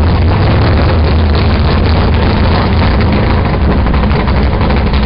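A car engine running steadily at idle, deep and loud.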